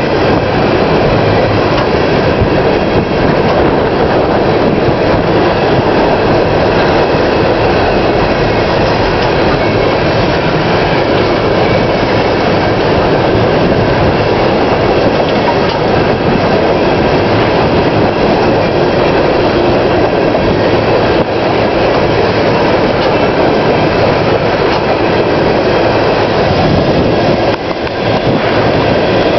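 Empty coal gondolas of a long freight train rolling past close by: a steady, loud wheel-on-rail noise with clickety-clack.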